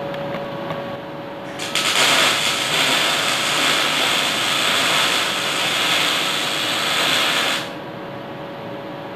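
Electric arc welding on steel: the arc crackles and hisses, starting abruptly about two seconds in and cutting off sharply some six seconds later as the weld is finished. A faint steady hum runs underneath.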